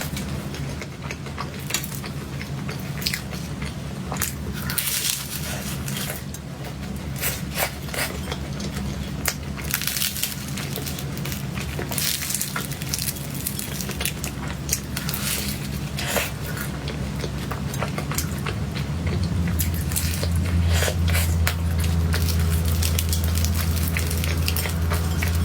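Close-up eating sounds: chewing and soft biting of cake, with the small clicks of a spoon against a plate, over a steady low hum that grows louder near the end.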